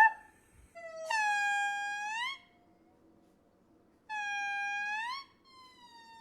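A monkey's long, high wailing calls: two loud ones, each held on one pitch and then sliding upward at the end, and a fainter, slowly falling call near the end.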